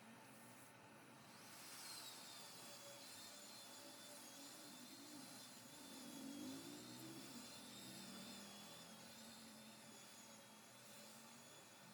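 Faint high whine of a small electric power-tool motor. It starts about a second and a half in, dips slightly in pitch as it settles, then runs steadily.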